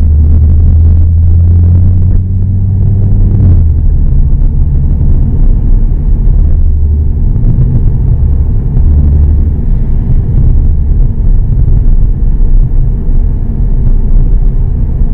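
Volkswagen car's engine and exhaust droning as heard inside the cabin while driving. A steady low drone eases about three and a half seconds in, then carries on lower and more uneven.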